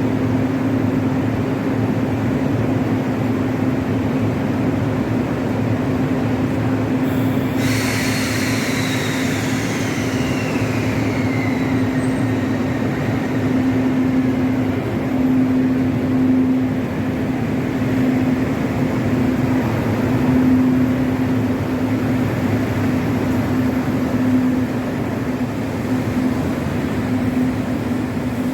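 Train running with a steady hum and rumble. About eight seconds in, a high whine cuts in and falls steadily in pitch for several seconds, as the train's motors slow.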